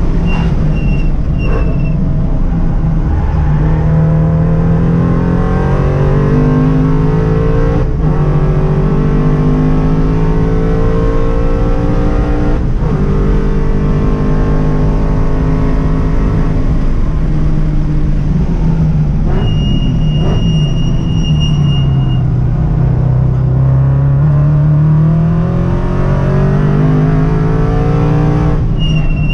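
2015 Scion FR-S's flat-four engine heard from inside the cabin at full track pace, revving up hard through the gears with sharp drops in pitch at each quick shift, then falling away under braking and downshifts about twenty seconds in before pulling hard again.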